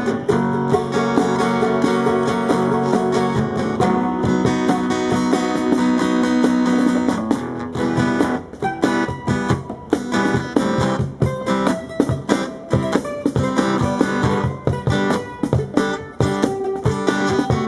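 Brazilian popular music played on strummed guitar: held, ringing chords at first, then from about eight seconds in a choppier, clipped rhythm of sharp strokes.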